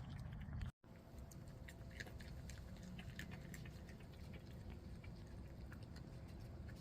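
Raccoons feeding on peanuts: faint, scattered small clicks and crunches over a low steady background hum, with a brief drop-out just under a second in.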